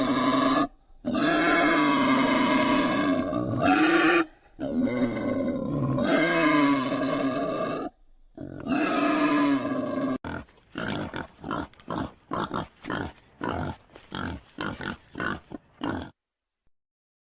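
Animal calls: four long, pitched calls of a few seconds each, then from about ten seconds in a quick series of short grunts, roughly three a second, that stops abruptly near the end.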